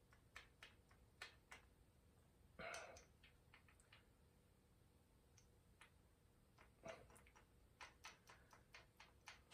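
Faint, scattered clicks and light taps of small parts and hand tools being handled during work on an engine's valve train, with a brief rustle about two and a half seconds in.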